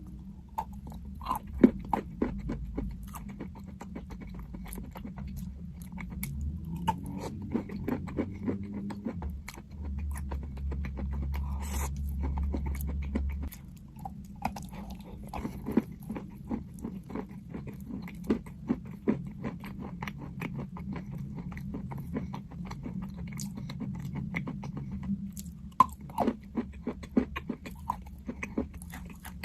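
Crunchy chalk being bitten and chewed close to the microphone: a long run of sharp, irregular crunches and crackles. A low steady rumble comes in for a few seconds in the middle.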